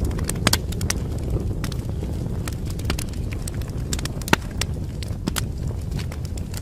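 Fire in a fireplace crackling: irregular sharp pops and snaps over a low, steady rumble, with one louder pop a little past the middle.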